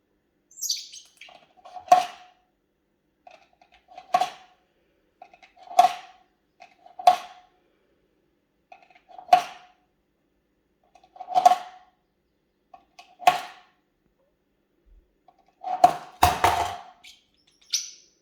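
A small pet bird knocks or drops a small object onto a hard surface again and again, making sharp knocks about every one and a half to two seconds, each with a short ring, with a quick cluster of knocks near the end. A brief high chirp comes about a second in, and another just before the end.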